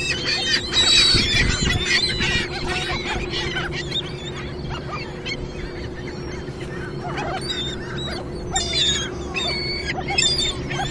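A flock of seagulls calling over thrown food, many short high cries overlapping. The calls are thickest in the first few seconds, thin out in the middle, and pick up again near the end.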